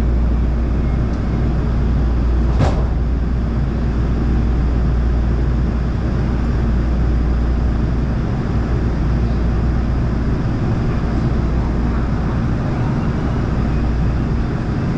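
LA Metro train running, heard from on board: a steady low rumble of the car on the rails, with one sharp knock about two and a half seconds in.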